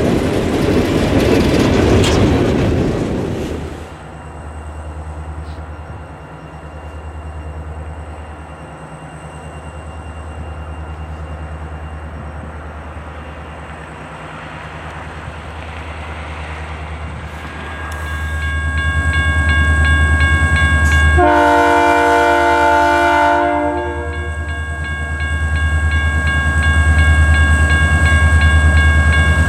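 For the first few seconds, freight cars roll past with steady wheel-on-rail noise. Then an EMD SD40-2 diesel locomotive approaches with its engine running low and steady, growing louder, and sounds its air horn in one long blast a little past the middle.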